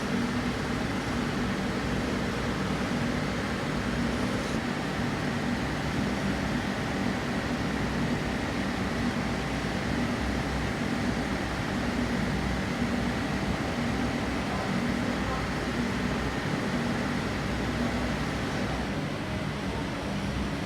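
A steady mechanical hum and hiss with a few faint constant tones, unchanging throughout, like a fan or other machine running.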